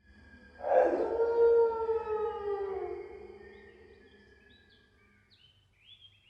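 Cartoon sound effect: a long, whale-like tone that slides slowly down in pitch and fades over about three seconds, followed by a few short rising chirps.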